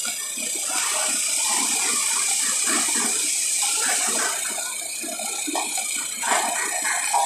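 Laser welding in progress: a steady hiss with irregular crackling running through it.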